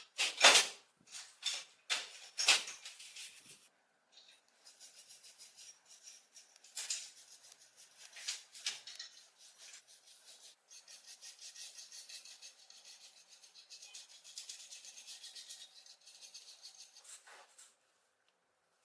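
A hand tool scraping and rubbing on rusty cast iron of a corn sheller. A few hard strokes come first, then a long run of quick, light strokes that stops shortly before the end.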